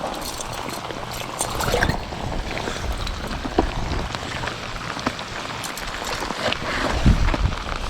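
Rain falling, a steady hiss with scattered drips and ticks, and a few low rumbles near the end.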